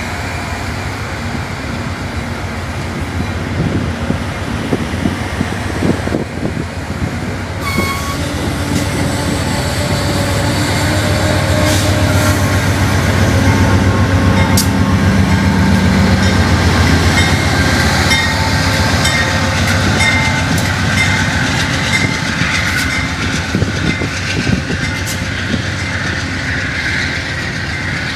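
Shore Line East commuter train's stainless-steel coaches rolling past, a steady rail rumble with wheels clicking over rail joints. It grows louder toward the middle and eases off near the end.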